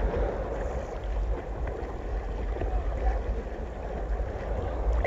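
Wind rumbling on the microphone over a steady rush of noise.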